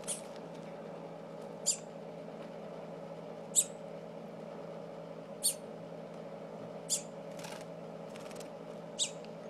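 Baby songbird cheeping: six short, high chirps, one every second and a half to two seconds.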